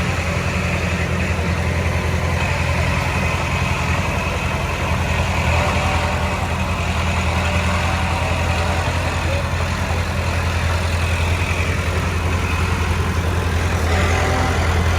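Diesel engine of earthmoving equipment running steadily.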